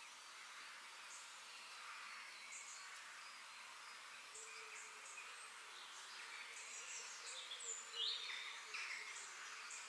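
Forest birds chirping and calling in many short, high notes over a steady faint hiss, with the loudest call a quick sliding whistle about eight seconds in.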